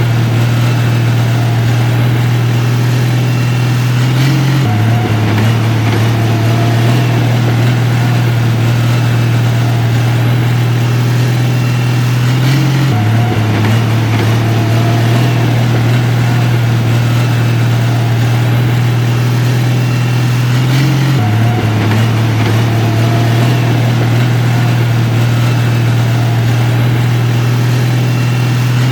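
Heavy construction machine's diesel engine running steadily at a constant low pitch, with a slight step in pitch about every eight seconds.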